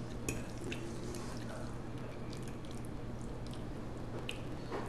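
Close-up wet eating sounds of spaghetti in meat sauce being chewed, with scattered small mouth or fork clicks. A faint steady low hum runs underneath.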